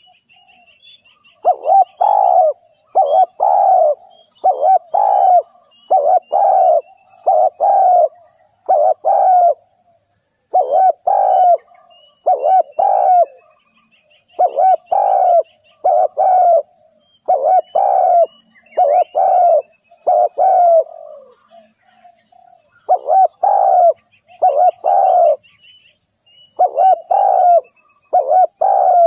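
Spotted dove cooing over and over in short phrases of low coos, with a couple of brief pauses; it is a decoy dove's call of the kind used to lure wild doves. Faint chirps of small birds sound behind it.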